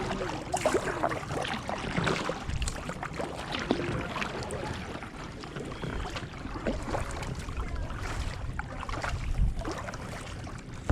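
Kayak paddling: paddle blades dipping into the water with irregular splashes and drips.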